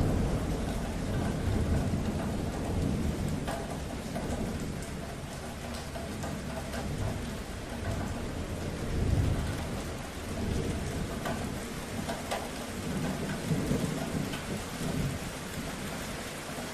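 Steady rain with fine drop ticks. A low thunder rumble dies away over the first couple of seconds, and another low rumble swells about nine seconds in.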